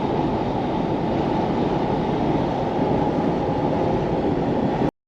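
Steady road and engine rumble heard from inside a moving vehicle at highway speed, which cuts off abruptly just before the end.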